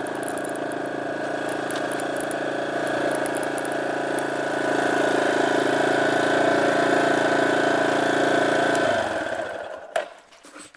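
Small 250 cc dirt bike engine running steadily and growing louder about halfway, then cutting off about nine seconds in, followed by a couple of sharp knocks.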